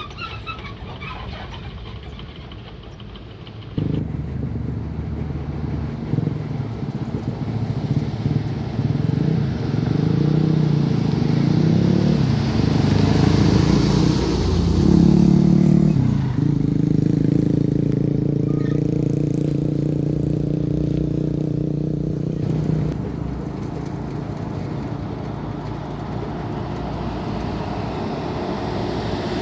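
A motor vehicle engine running, starting loudly about four seconds in. Its pitch rises and falls for several seconds, then it runs steadier and eases off in the last few seconds.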